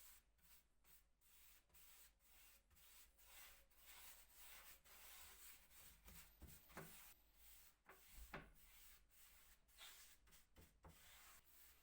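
Faint, irregular rubbing strokes across wood, with a few sharper knocks between about six and nine seconds in.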